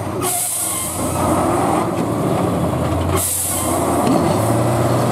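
Heavy trial truck's diesel engine running under load, its note rising about four seconds in. Two bursts of high hissing come over it, the first about a second and a half long and the second shorter.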